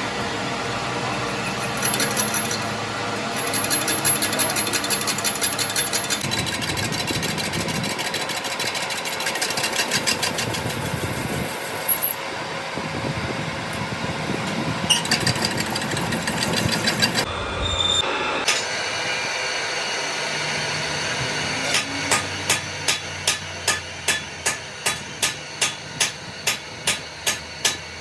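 Workshop machining and metal-working noise that changes abruptly several times. In the last six seconds a hammer strikes metal in a steady rhythm, about two to three blows a second, each with a short metallic ring.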